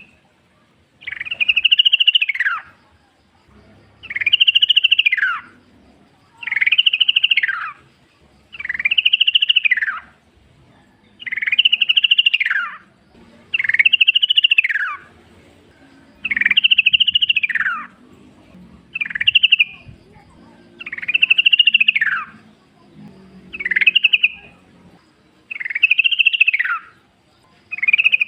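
Yellow-vented bulbul (trucukan) singing: a loud phrase that rises, then falls away, repeated about every two and a half seconds, about a dozen times.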